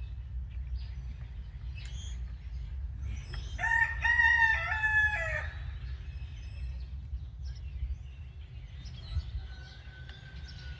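A rooster crows once, about three and a half seconds in, one call lasting about two seconds, over a steady low hum. A few faint clicks come and go.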